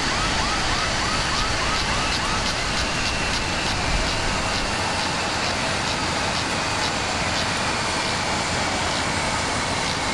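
Steady loud jet-aircraft roar on the airport ramp. Over it runs a warbling, siren-like tone: quick rising chirps at first, then slower sweeps up and down about once a second.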